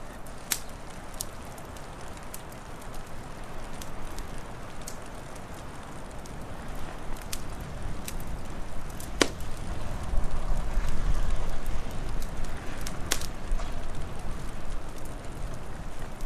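Wood fire crackling: scattered sharp pops, the loudest about nine seconds in, over a steady hiss and a low wind rumble that grows louder about ten seconds in.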